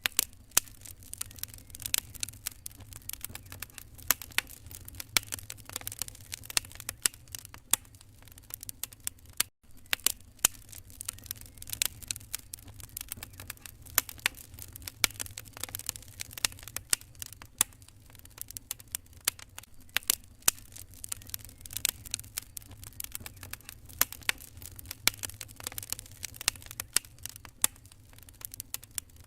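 Fireplace fire crackling: irregular sharp pops and snaps over a faint low steady hum, with a brief break about nine and a half seconds in.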